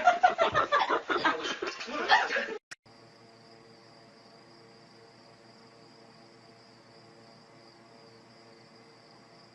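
Voices talking and laughing, cut off abruptly about two and a half seconds in. Then a faint, steady, high trilling of insects, like a cricket chorus, with a low steady hum beneath it.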